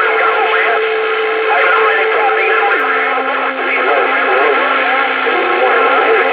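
CB radio receiver on a crowded channel: several distant voices talking over one another through static, with a steady heterodyne whistle that drops to a lower pitch about halfway through.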